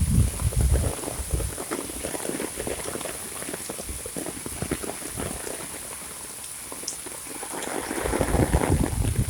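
Heavy monsoon rain: dense, irregular splashing of drops, with heavier low rumbling surges in the first second and again about eight seconds in. A steady high-pitched tone runs underneath.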